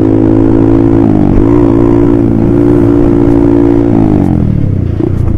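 Honda CBR150R's single-cylinder engine through an aftermarket exhaust, held at steady high revs while riding. The revs dip briefly about a second in and recover, then fall away from about four seconds in.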